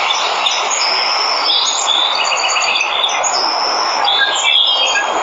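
Steady rushing of a waterfall, with birds chirping over it in short whistled notes and trills, most of them in the middle stretch.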